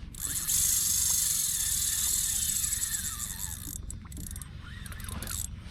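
Fishing reel drag buzzing as a hooked fish pulls line off the spool. It runs hard for about three and a half seconds, then comes again in a few short spurts.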